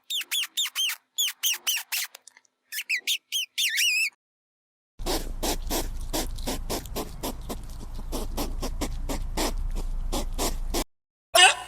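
Animal calls in two bursts: first a run of short, high squeaky chirps that arch in pitch; then, after a second of silence, a fast steady series of short calls, about five a second, over a low hum.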